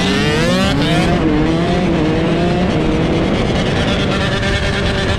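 Dirt bike engine revving hard. Its pitch climbs steeply for about the first second, then holds high with small drops and rises as the throttle is worked.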